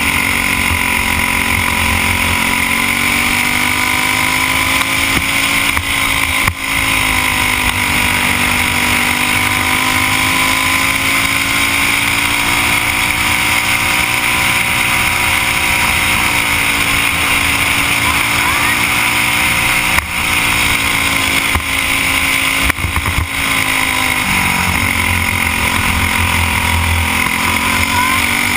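Single-cylinder Briggs & Stratton Animal four-stroke kart engine running hard at racing speed, its pitch rising and falling slowly as the throttle comes on and off, with a few brief dips. Wind rushes over the helmet-mounted camera.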